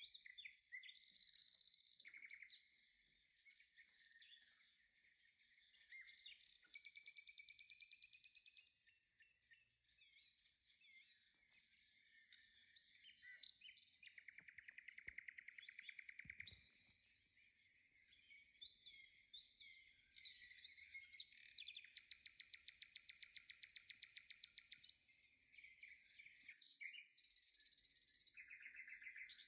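Faint birdsong: chirps and short whistled glides from birds, broken by fast trills of quickly repeated notes, the longest lasting about three seconds.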